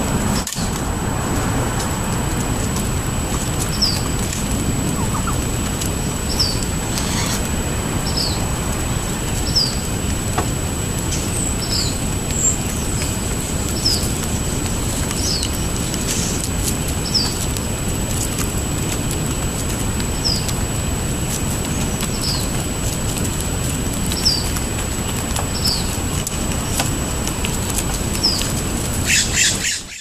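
A bird's short, high, slightly falling chirp, repeated about every one and a half to two seconds over a steady low background rumble.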